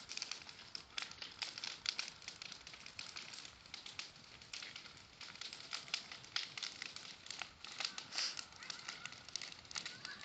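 Bonfire burning with a dense run of small, irregular crackles.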